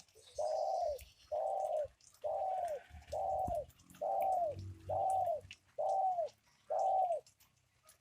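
A bird calling a steady series of eight short, even notes, about one a second, each dropping in pitch at its end.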